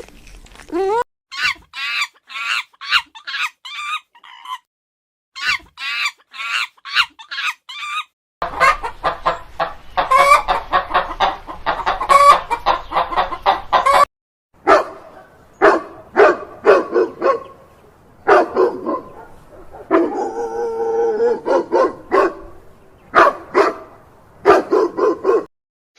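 Chickens calling in several separate bursts: quick runs of short, high peeps at first, then denser calling and repeated lower clucks, with brief silent gaps between them.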